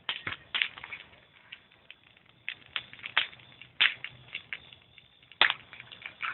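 Wood fire crackling, with irregular sharp pops and snaps; the loudest snaps come a few seconds in and again about five and a half seconds in.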